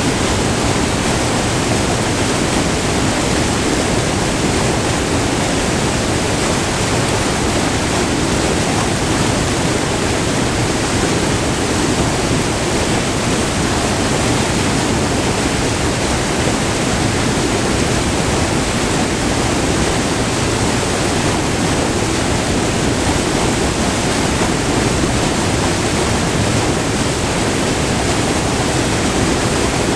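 Small multi-tiered river waterfall, white water tumbling over rock ledges in a steady, loud, unbroken rush.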